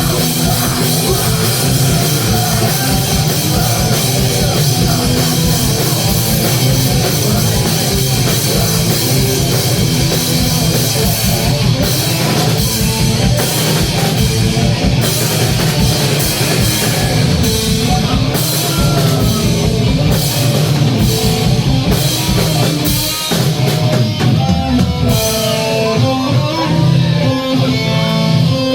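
A punk rock band playing loud, with drum kit and distorted electric guitar. Toward the end the drums drop away and the guitar carries on alone.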